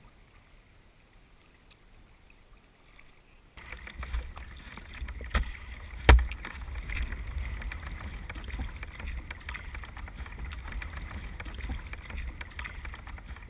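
Sea kayak out on the water: paddling and water sounds, faint at first and then abruptly louder about a quarter of the way in, with a low rumble and many small splashes and clicks. Two sharp knocks come close together just before halfway, the second much the louder.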